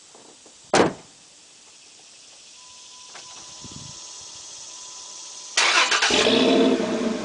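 A single thump about a second in, then a steady high tone, then a 2005 Dodge Dakota's 3.7L V6 is cranked by the starter. Near the end it catches and settles into an idle through a Flowmaster Original 40 Series muffler.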